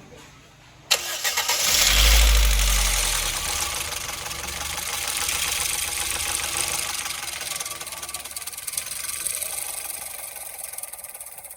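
Toyota Corolla GLI engine started about a second in, briefly flaring, then settling to a steady idle with a busy mechanical clatter. It is the engine noise that the mechanic means to cure by adjusting the tappets.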